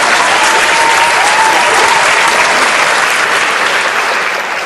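Steady, loud applause from a crowd, with a faint thin whistling tone wavering through it about a second in.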